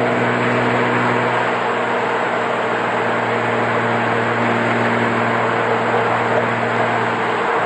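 Jeep Wrangler's engine running at a steady speed through an aftermarket after-cat exhaust: one steady drone with a rushing hiss over it. The steady note breaks off at the very end.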